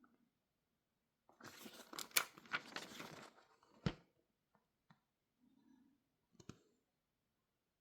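Packaging being handled: about two seconds of crinkling and tearing, then a sharp knock as something is set down, a couple of light ticks, and a second knock a few seconds later.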